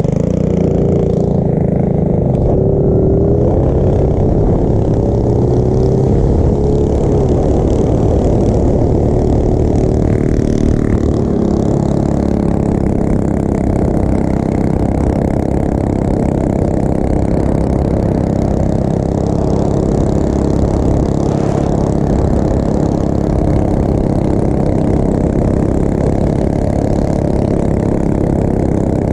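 Small motorbike engine running steadily under way, its pitch rising and falling during the first few seconds.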